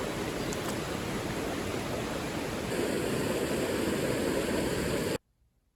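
Mountain stream water rushing steadily, growing a little louder about three seconds in, then cutting off abruptly near the end.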